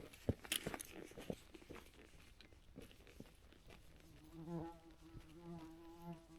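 An insect buzzing close by in on-and-off spells from about four seconds in, its pitch wavering, after a few faint clicks and crunches.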